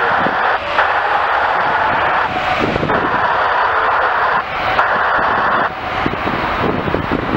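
Loud rushing noise of a jet airliner's engines with wind buffeting the microphone; the rush drops out abruptly for a moment several times and weakens near the end.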